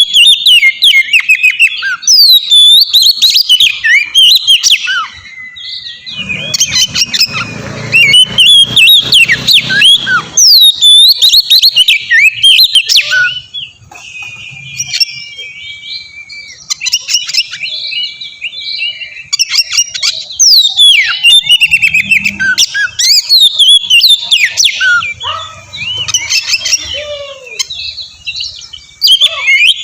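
Oriental magpie-robin (kacer) song: a loud, fast, varied stream of whistles and chirps with quick rising and falling notes, easing into a quieter, sparser stretch about halfway through.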